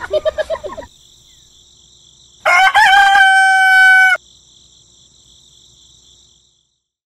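A rooster crows once: a rising call that settles on a held, steady note for over a second and then cuts off sharply. A faint, steady high-pitched tone runs underneath.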